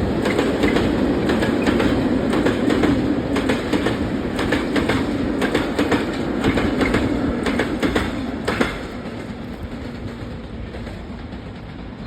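ZSSK Cargo freight train's wagons rolling past, with wheels clacking rhythmically over rail joints. The rumble drops away sharply after about eight and a half seconds and fades quieter.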